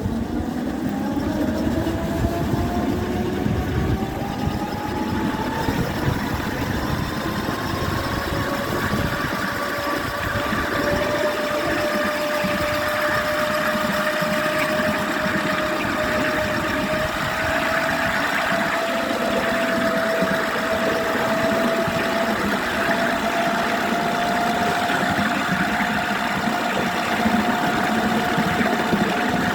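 RoR Hercules electric locomotive's motors whining, the pitch rising steadily over the first fifteen seconds or so as it picks up speed, then holding nearly level, over a steady rumbling noise.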